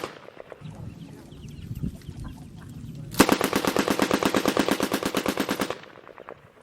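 A lull with a low rumble, then about three seconds in a long burst of machine-gun fire: rapid, evenly spaced shots for about two and a half seconds before it fades out.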